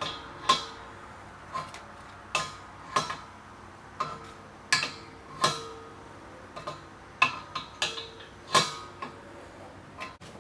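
Metal fittings clinking while a propane heater's left-hand-thread hose fitting is threaded onto the cylinder: about a dozen irregular sharp clicks, some with a short metallic ring.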